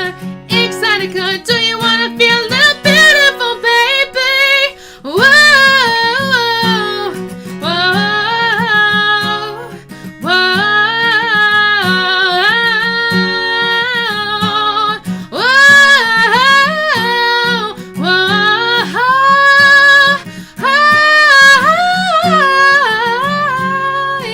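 A woman singing with acoustic guitar accompaniment, in long held notes.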